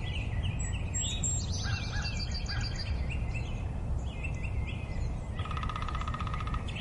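Wild birds calling: a series of short high chirps and whistles, then a fast rattling trill about five and a half seconds in, over a steady low background rumble.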